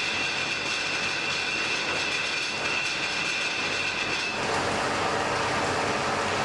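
Blacksmith's forge fire burning: a steady rushing noise with a high, even whine that stops suddenly a little over four seconds in, while the fire noise carries on.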